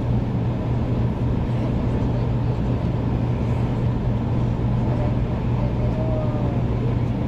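Steady running noise of a 500 series Shinkansen at speed, heard inside the cabin: a constant deep hum over a dense rumble of the train on the track.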